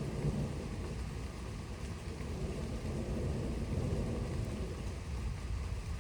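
Thunder rumbling low and continuously, swelling and easing, over steady rain.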